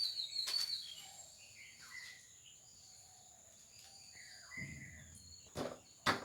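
Birds chirping faintly, with a few sharp knocks near the start and again near the end.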